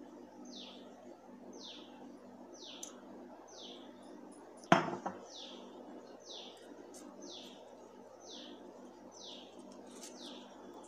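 A bird calling steadily, a high falling chirp repeated about three times every two seconds, with one sharp click about five seconds in.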